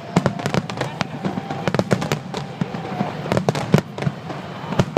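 Aerial fireworks bursting: many sharp bangs and crackles in quick succession over a low rumble.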